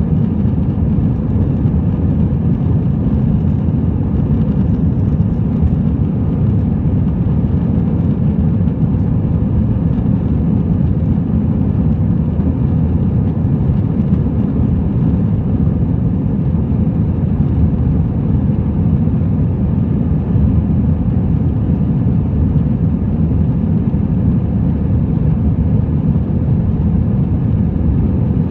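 Cabin noise of an Airbus A321-200 airliner in flight: a steady low rumble of jet engines and rushing air, heard inside the cabin.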